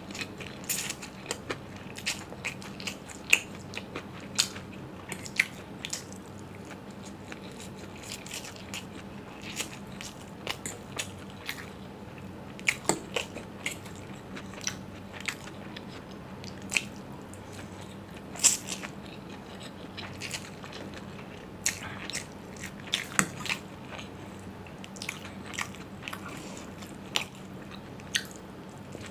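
Close-miked chewing and mouth sounds of a person eating forkfuls of chow mein noodles: an irregular stream of sharp wet clicks, smacks and crackles.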